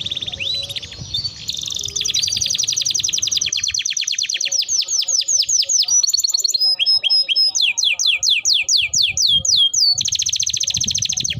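Domestic canary singing long rolls of rapidly repeated notes. A fast roll gives way about midway to slower, falling whistled notes, a few a second, and a fast roll returns near the end.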